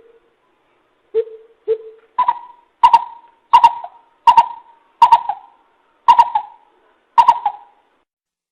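Coucal (bìm bịp) hooting: two low hoots, then a run of about seven higher, evenly spaced hoots.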